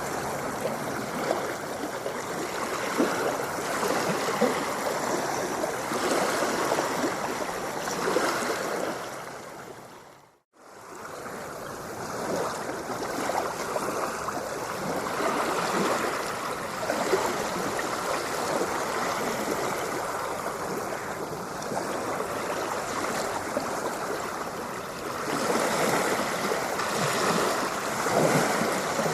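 Ocean water washing and splashing in a steady hiss. About ten seconds in, it fades away to a moment of silence and swells straight back.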